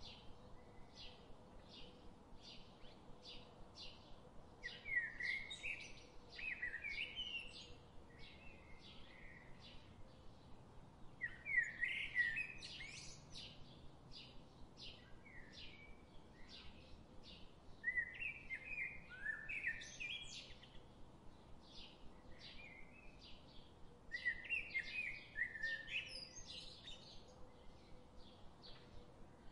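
Birds singing: a steady run of short high chirps, about two a second, with a louder warbling phrase every six or seven seconds.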